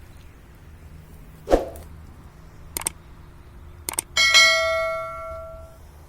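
A couple of knocks and clicks, then one loud metallic strike that rings on like a bell, its tones fading away over about a second and a half.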